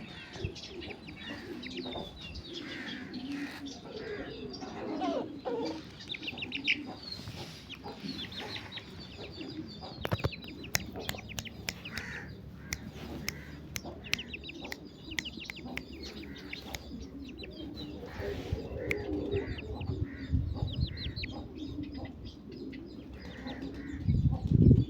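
Aseel chickens clucking, with chicks peeping, in short repeated calls throughout. A loud low bump comes near the end.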